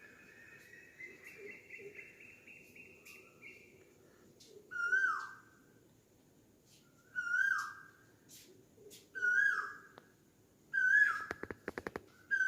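Asian koel calling: four loud calls about two seconds apart, each dropping in pitch. A fainter rising series of bird notes comes in the first few seconds, and a quick run of clicks comes near the end.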